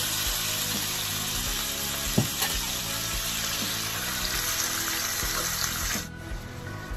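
Raw chicken breast cubes frying in hot vegetable oil in a non-stick pan: a loud, even sizzle, with one sharp knock of a spatula about two seconds in. The sizzle drops away abruptly near the end, and background music plays underneath.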